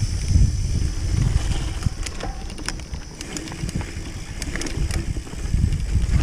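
Mountain bike ridden on a dirt track, heard from a camera mounted on the bike: a constant low rumble with scattered clicks and rattles.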